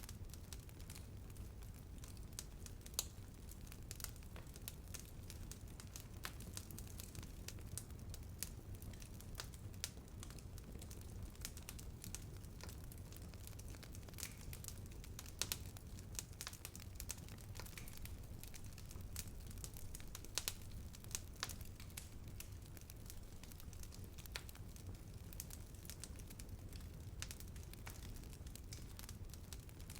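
Bonfire burning, wood crackling with irregular sharp pops over a low steady rumble of the flames, with a few louder pops scattered through.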